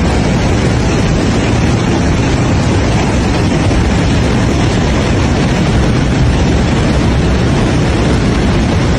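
Loud, steady rushing roar of fast-flowing floodwater.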